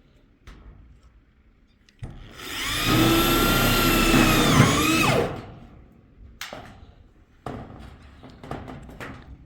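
A small motor, like a power tool's, runs with a steady whine for about three seconds, then winds down and stops. A few scattered knocks follow.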